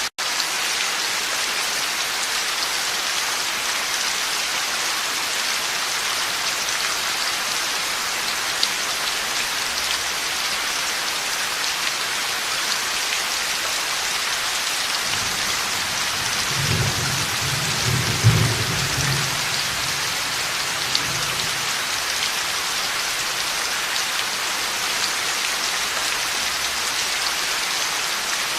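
Steady heavy rain falling in a thunderstorm. About halfway through, a low rumble of thunder rolls in, peaks a few seconds later, then dies away under the rain.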